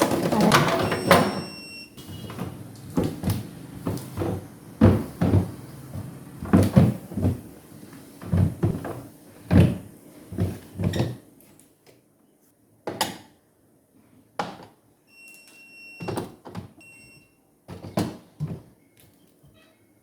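Irregular knocks and clatter of containers, shelves and doors being handled while a refrigerator is emptied for cleaning, busier in the first half. There are a few short high beeps near the start and again later.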